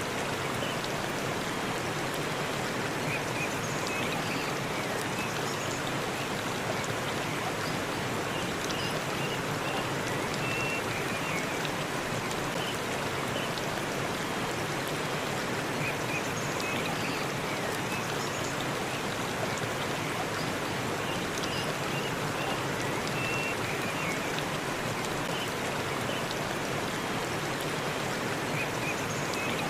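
Forest waterfall rushing steadily, with a few faint short high chirps now and then.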